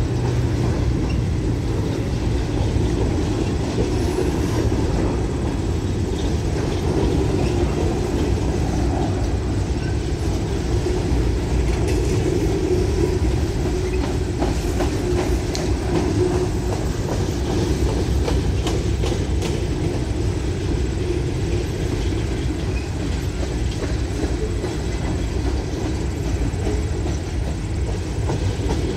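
Norfolk Southern coal hopper cars rolling past: a steady rumble of steel wheels on rail, with scattered sharp clicks as the wheels cross rail joints.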